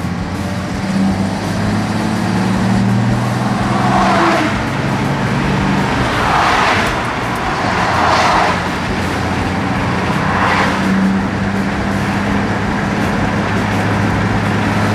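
A 1969 Nissan Cedric Wagon's L20A straight-six engine runs steadily as the car is driven, its hum shifting slightly in pitch. Four brief rushing swells of road or wind noise rise over it about four, six, eight and ten seconds in.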